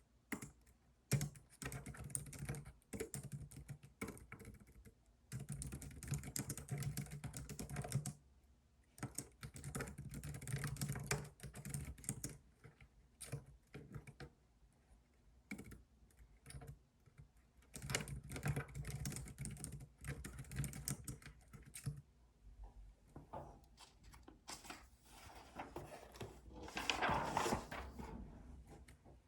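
Computer keyboard being typed on in bursts of rapid key clicks, with short pauses between runs. A brief rushing noise rises and falls near the end.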